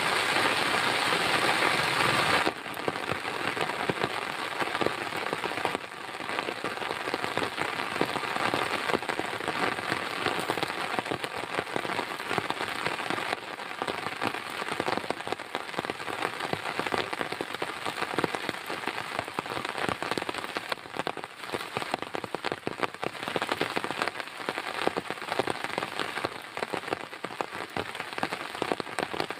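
Heavy rain falling on a surface, a dense patter of countless drop strikes. For the first couple of seconds it is a louder, more even hiss, then it turns to a sparser, crackly patter of individual drops.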